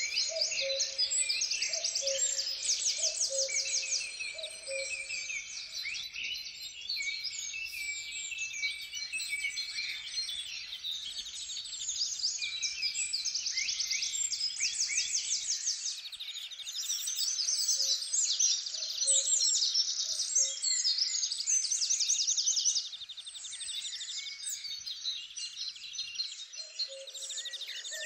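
Forest birdsong: several songbirds singing at once in dense, overlapping high chirps and trills, with a lower call of short repeated notes heard at the start, again past the middle, and near the end.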